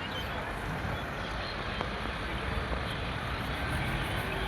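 A vehicle engine running steadily, a low rumble under a constant wash of noise.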